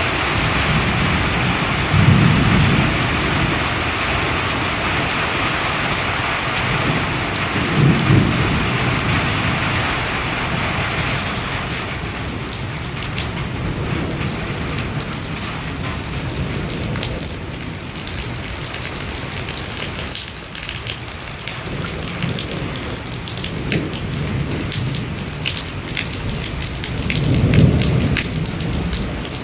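Thunderstorm: steady rain with three low rolls of thunder, one near the start, one about a quarter of the way in and one near the end. From about twelve seconds in the rain's hiss thins and single raindrops tick sharply close by.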